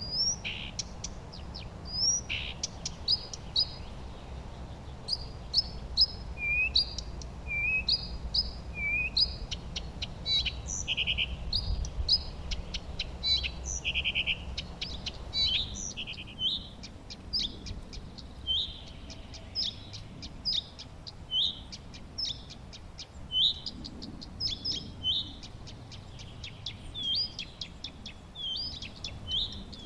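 Several songbirds chirping and singing in quick, short high notes and trills, one call overlapping another, with a low rumble underneath that fades out about halfway through.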